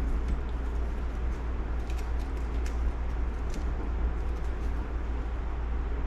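Faint light clicks of small metal engine parts being handled, over a steady low hum.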